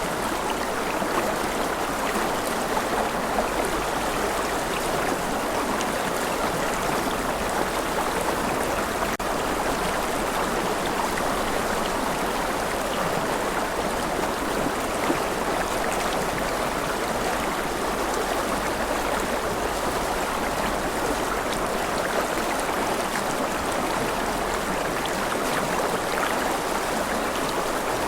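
Gentle rain falling steadily, an even, unbroken patter of drops.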